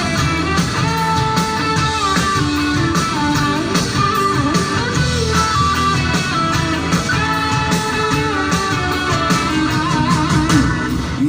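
Live rock band playing an instrumental intro, with a guitar melody over bass and drums.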